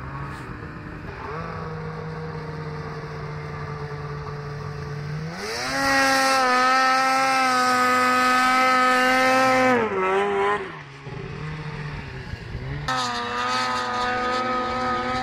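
Snowmobile engine running at a steady speed, then revving up about five seconds in and holding high revs for about four seconds before dropping back. It revs up again near the end.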